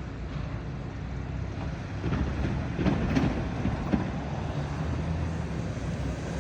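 Hi-rail truck running along the rail track, a steady low rumble that swells about two seconds in as it passes close, with a few sharp clicks.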